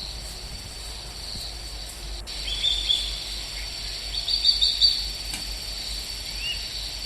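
Birds chirping in the forest: a few short calls about two and a half seconds in, a quick run of louder chirps a little later, and one short rising chirp near the end, over a steady low outdoor rumble.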